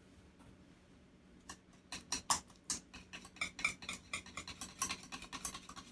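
A utensil stirring a thick mayonnaise and sour cream dressing in a bowl. Quick, repeated clicks and scrapes begin about a second and a half in.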